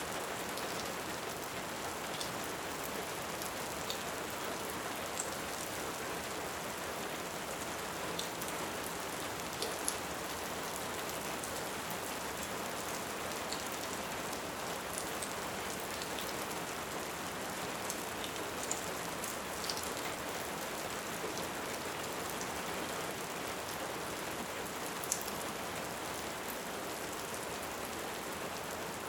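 Steady rain hiss with scattered sharp crackles and pops from a wood fire.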